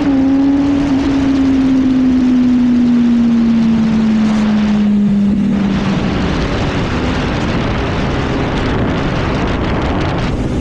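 Yamaha R1 sport motorcycle engine on the road, a gear change right at the start, then its note falling slowly for about six seconds as the bike slows, under heavy wind noise on the helmet microphone. In the second half the engine fades and the wind rush dominates.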